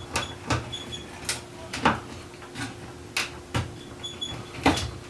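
Irregular sharp wooden knocks and clicks, roughly one or two a second, as parts of an old wooden chair are worked loose and pulled apart by hand.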